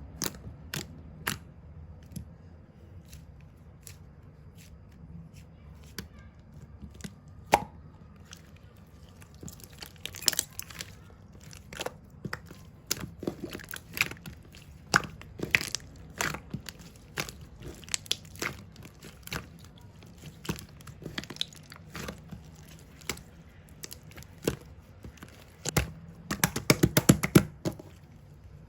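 Close-up handling sounds: a string of sharp clicks and taps with crinkly, crunchy bits, getting busier about halfway through and turning into a dense run of crackling near the end.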